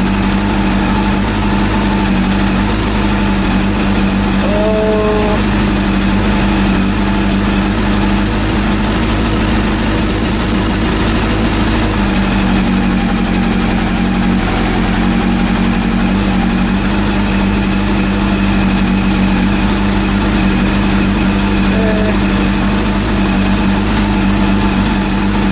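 Freshly rebuilt Honda CB400 four-cylinder motorcycle engine idling steadily; its note wavers for a few seconds around the middle before settling back.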